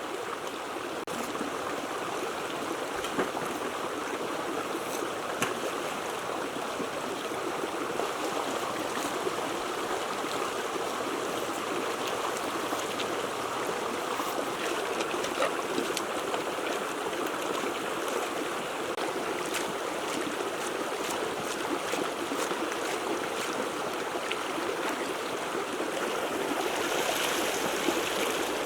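Water flowing steadily with a continuous rushing sound and small splashes, growing a little louder and brighter near the end.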